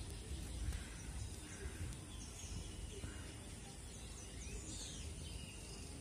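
Faint, scattered chirps and short calls of small birds, busiest about four and a half to five seconds in, over a steady low rumble of outdoor background noise.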